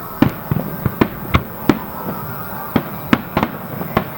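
Fireworks bursting in a rapid, irregular series of sharp bangs, about ten in four seconds, each with a short echoing tail.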